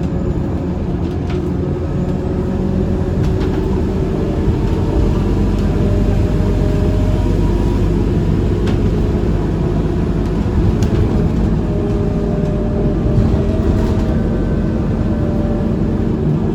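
Inside a Scania K230UB city bus on the move: a steady diesel engine and drivetrain hum with road noise and faint whining tones that drift in pitch. There are occasional light rattles and clicks from the cabin.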